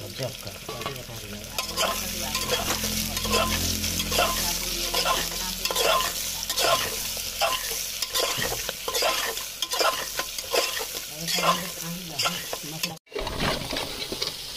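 Sliced onions sizzling in oil in an aluminium pressure cooker, stirred with a metal slotted spoon that scrapes the pot in quick repeated strokes. The sound drops out for a moment near the end, then the frying and stirring go on.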